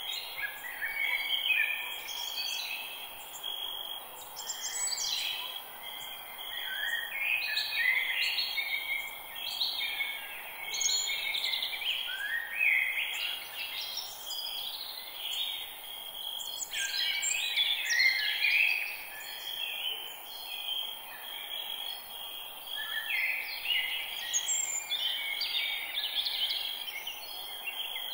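Forest ambience: several birds singing in overlapping phrases that come in bursts every few seconds, over a steady high-pitched tone and a faint background hiss.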